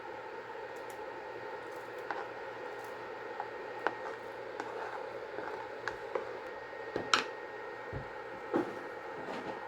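Scattered light clicks and knocks of kitchen utensils against a cooking pot over a steady background hum; the loudest knock comes about seven seconds in.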